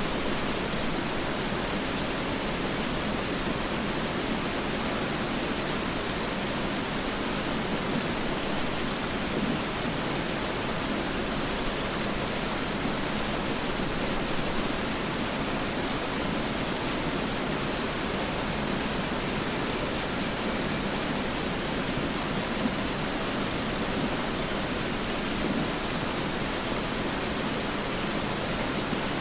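Mountain river flowing: a steady, even rush of water with little deep rumble.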